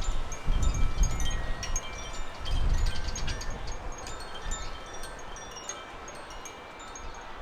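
Wind chime tinkling: many short, clear, high notes at different pitches. Gusts of wind rumble on the microphone twice in the first half.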